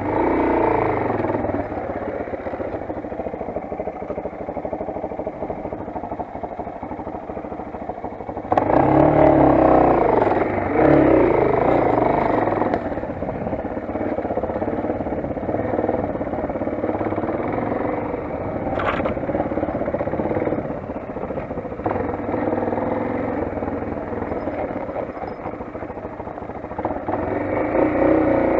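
Motoland XR 250 enduro motorcycle's single-cylinder four-stroke engine running under way. It revs up louder twice, about nine and eleven seconds in, then settles to a steadier pull, and rises again near the end.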